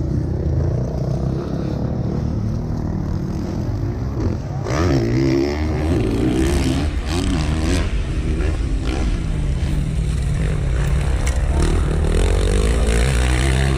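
450cc four-stroke motocross bikes racing, their engines revving up and down as riders work the throttle. They get louder from about five seconds in, as bikes pass close by.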